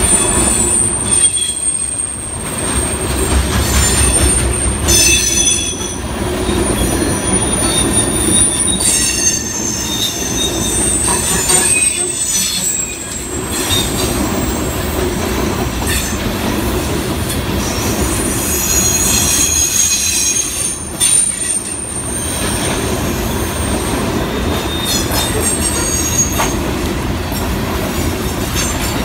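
Loaded coal hopper cars of a freight train rolling past with a steady rumble of steel wheels on rail. High-pitched wheel squeal comes and goes over it.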